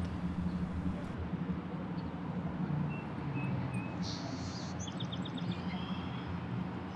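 Open-air ambience: a steady low rumble with a few faint small-bird chirps, including a quick run of about five chirps in the middle.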